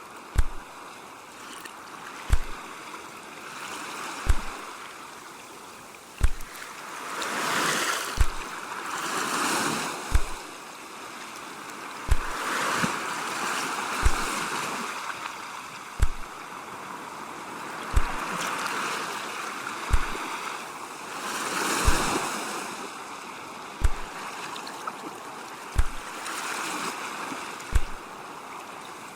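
Ocean waves washing in and out, swelling and fading every few seconds. A short, deep thump repeats steadily about every two seconds over the surf.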